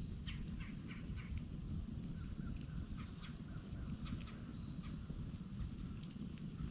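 Campfire burning with a steady low rumble and scattered crackles. A bird calls a quick series of about five short notes in the first second or so, then gives a fainter wavering call.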